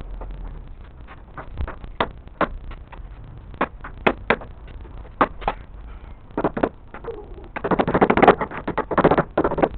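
Construction work with hand tools: a series of irregular sharp knocks, then a dense clatter lasting about two seconds near the end.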